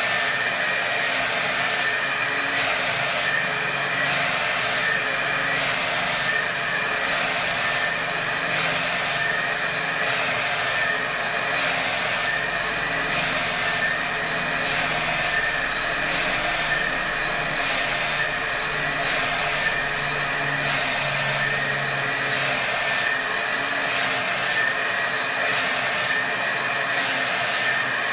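Hair dryer running continuously on its highest setting: a steady rush of air with a high motor whine and a faint regular pulsing about once a second.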